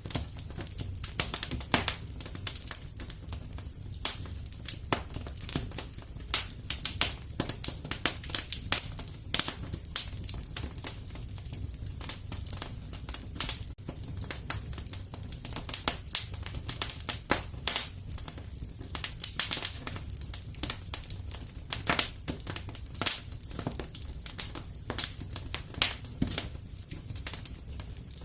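Wood fire crackling and popping in a fireplace, with irregular sharp snaps over a steady low rumble of the flames.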